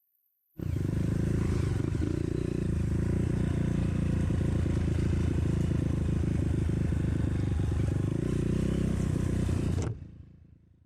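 Trail motorcycle engine running at fairly even revs. It starts abruptly about half a second in and cuts off near the end.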